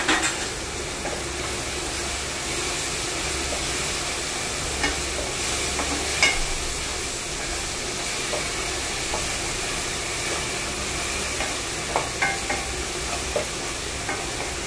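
Chicken and vegetable noodles sizzling steadily as they are stir-fried over a high flame in a nonstick pot. A spatula knocks and scrapes against the pan now and then: once sharply at the start, and in a quick run of taps near the end.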